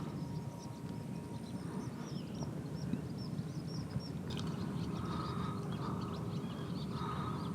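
Small birds chirping over a steady low rumble.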